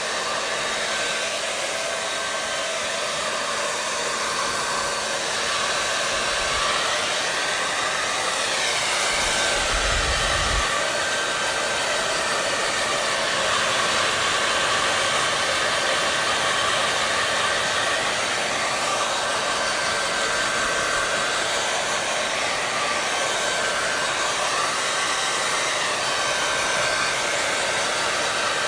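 Hair dryer running continuously, a steady rush of air with a faint whine, its tone slowly swelling and falling every few seconds. A brief low rumble comes about ten seconds in.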